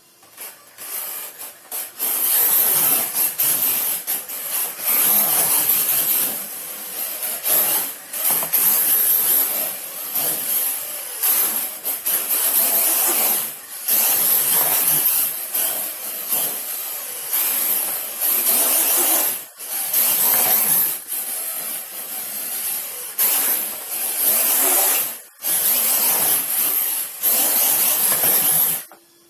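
Radio-controlled drift truck sliding around: a hissing scrub from its tyres on the surface, surging and easing over and over with a few brief drops, then stopping abruptly near the end.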